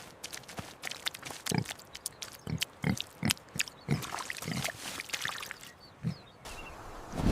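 A pig grunting in a series of short, irregular grunts.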